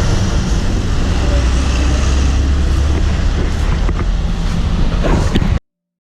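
Passing vehicle traffic: a loud, steady rumble with a deep low drone, cutting off abruptly about five and a half seconds in.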